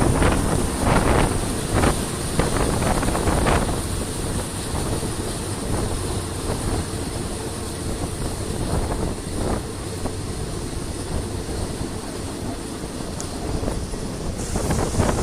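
Passenger train on the move: a steady rumble of the carriage and wheels on the track, with several knocks in the first few seconds and wind on the microphone.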